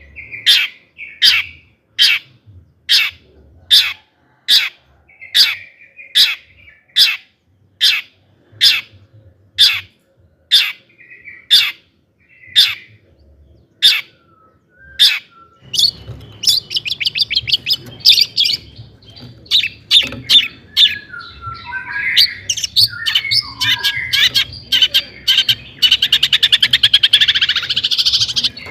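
Long-tailed shrike calling: a run of loud, sharp, downward-swept 'toet' notes about one a second, then from about halfway a faster, denser song of rapid notes and warbling that ends in a fast chatter.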